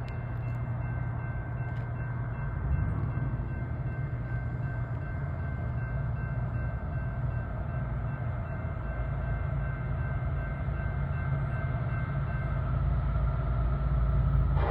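A train running by: a steady low rumble that grows louder toward the end, with faint steady high tones that stop shortly before the end.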